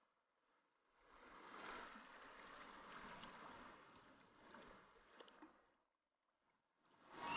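Faint rushing water of a mountain stream, swelling in about a second in and dying away just before six seconds, with a few small ticks.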